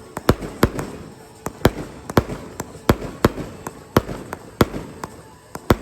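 Aerial fireworks bursting: an irregular string of sharp bangs, about two or three a second, over a low rumble.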